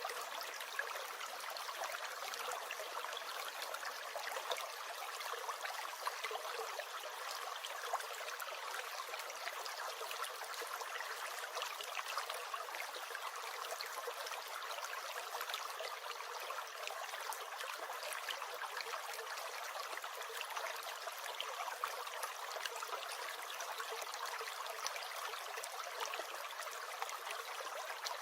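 A small brook gurgling and trickling steadily, a continuous rush flecked with tiny splashes.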